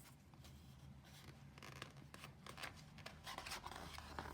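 Faint paper rustling and soft handling sounds as a picture book's pages are turned, over a low steady hum.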